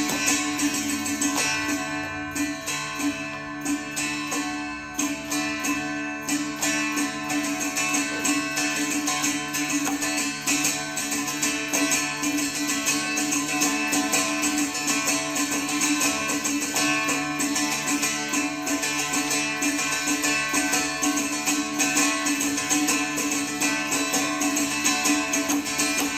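Live Carnatic classical music played on instruments over a steady held drone, with dense, fast percussive strokes.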